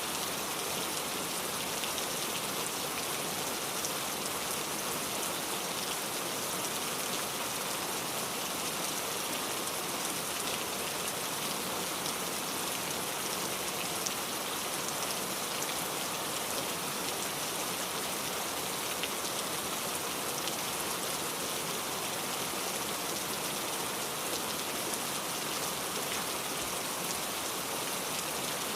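Steady rainfall, a dense even hiss with scattered patters of individual drops.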